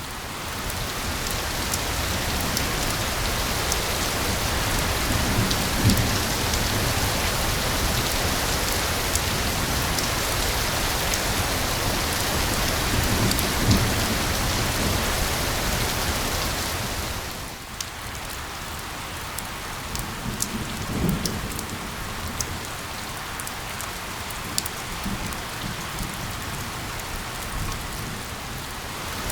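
Steady heavy rainfall pattering on a surface, easing to lighter rain with distinct individual drop hits a little past halfway. Low distant thunder rumbles a few times underneath.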